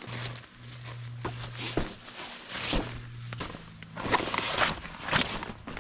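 Footsteps and rustling handling noises with scattered clicks, over a steady low hum that drops away about halfway through.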